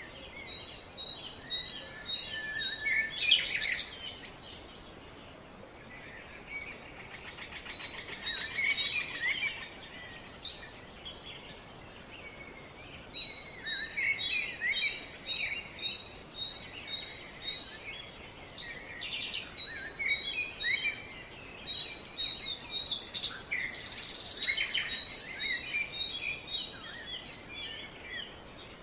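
Several small birds singing. Runs of short, evenly repeated high notes, about three a second, mix with scattered quicker chirps over a faint steady background hiss.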